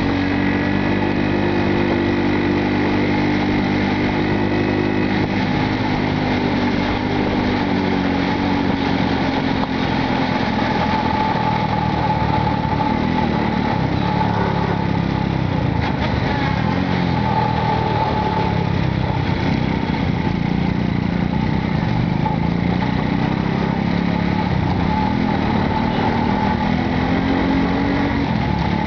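Small motorcycle taxi engine running during a ride, its pitch steady at first and then rising and falling as the taxi speeds up and slows, over steady road noise.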